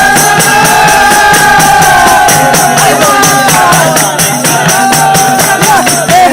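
Live folk music: one long high held note wavers and fades out about four seconds in, over a fast, steady percussion beat.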